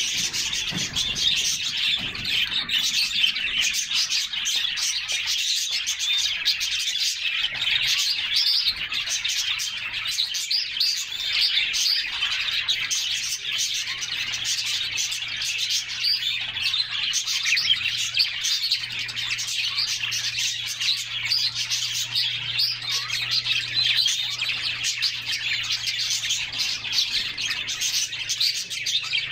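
Several canaries chirping and singing without pause, a dense flow of high trills and tweets.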